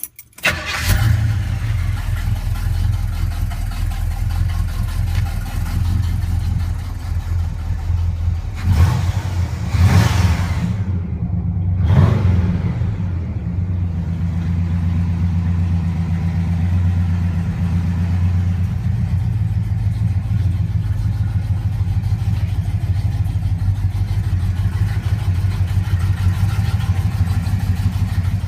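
1970 Pontiac GTO Judge's V8 engine starting, then idling steadily. It is revved briefly three times, about nine, ten and twelve seconds in, and settles back to idle.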